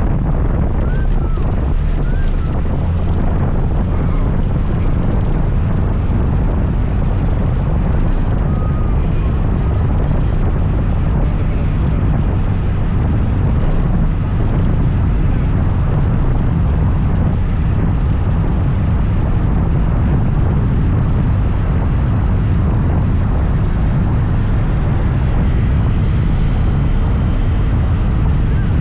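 A scooter being ridden: steady wind rush on the microphone over the engine and road noise.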